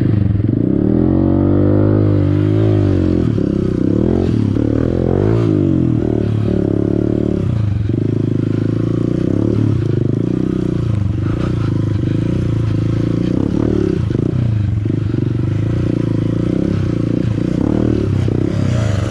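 Honda CRF150L dirt bike's single-cylinder four-stroke engine running on a trail, its revs rising and falling over and over as the throttle is worked.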